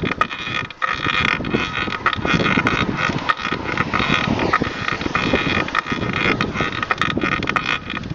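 Bicycle squeaking and creaking under pedalling, a constant squeaky noise each time weight goes on a pedal, from a source the rider cannot locate.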